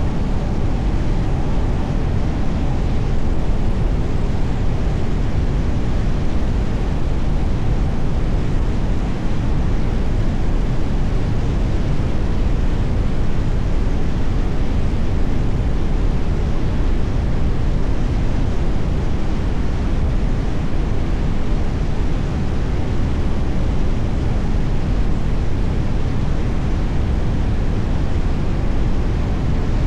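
Steady road noise of a car driving along: an even, low rumble of tyres and wind with no distinct events.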